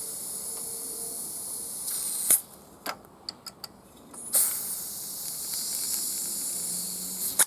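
Propane gas hissing from a canister as it is held on to fill the Mamod SP8 steam engine's gas tank, in two spells of a few seconds each that stop sharply, with a few small clicks in the pause between.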